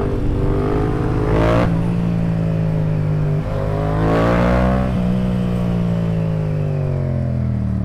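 Yamaha FZ-07's parallel-twin engine under way: revs climb, drop suddenly at a gear change about one and a half seconds in, climb again to a peak around four seconds, then ease off slowly.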